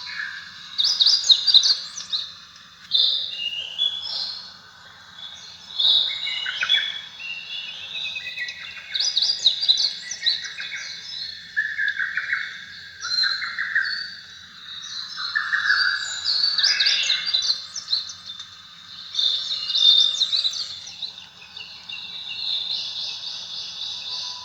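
Birdsong: many birds chirping and trilling in short, varied phrases, with a steady high buzz like insects near the start and again near the end.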